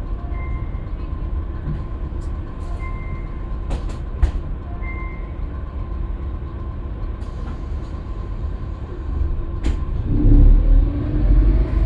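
Scania K320UB bus engine running with a low, steady rumble, a few sharp clicks and knocks about four seconds in, then rising in pitch and loudness as the bus accelerates near the end.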